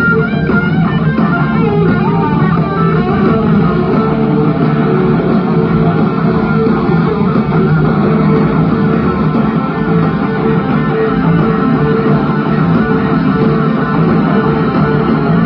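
Live rock band playing loudly. An electric guitar lead bends and glides through its notes in the first few seconds over bass, then the full band settles into a dense, sustained passage.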